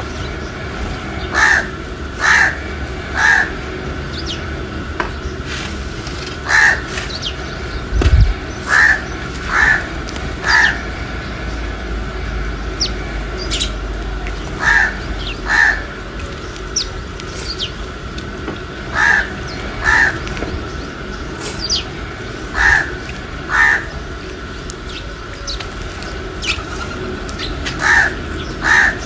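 A crow cawing in short series of two or three caws, repeated every few seconds, over a steady low background hum, with faint, thin, high chirps from small birds in between.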